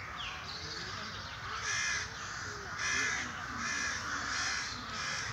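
A bird cawing about five times, harsh calls a little under a second apart, starting just under two seconds in.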